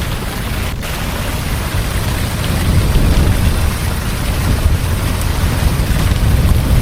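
Heavy rain falling steadily, under a deep rolling thunder rumble that slowly grows louder.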